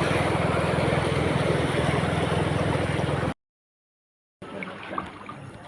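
Loud, steady rushing noise with a low hum under it, which cuts off abruptly about three seconds in. After a second of silence, quieter noise with a few light clicks follows.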